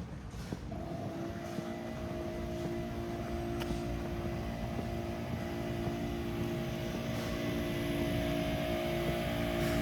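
An engine's steady drone, setting in about a second in and slowly growing louder.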